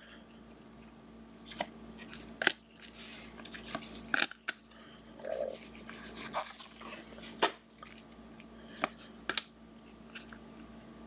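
Football trading cards being handled by hand: irregular light clicks, taps and soft sliding as cards are picked up and sorted.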